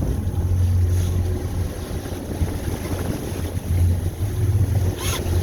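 Low, steady hum of a boat's engine running slowly, under wind rushing on the microphone and water noise. A brief sharp sound comes near the end.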